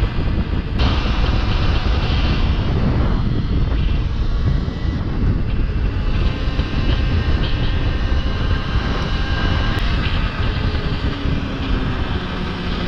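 Wind buffeting the microphone while riding an electric enduro motorcycle, a heavy steady rumble, with the faint whine of the electric motor shifting in pitch near the end.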